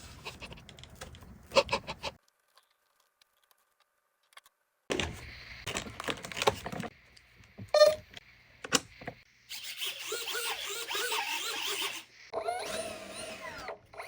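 Handling noises from unboxing: clicks, taps and rustling, in short cut-together stretches with a silent gap of a few seconds about two seconds in.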